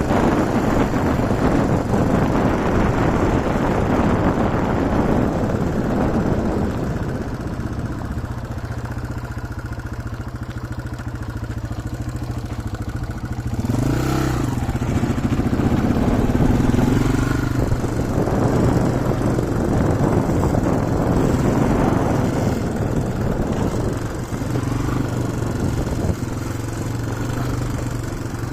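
Yamaha TW200's single-cylinder four-stroke engine running as the motorcycle is ridden, with wind and road noise that is heaviest in the first few seconds. The engine pitch rises and falls briefly about halfway through.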